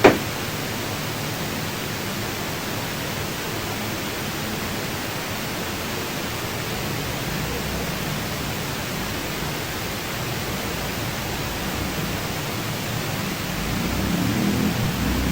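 A steady hiss throughout, with one sharp knock right at the start. The low sound rises slightly near the end.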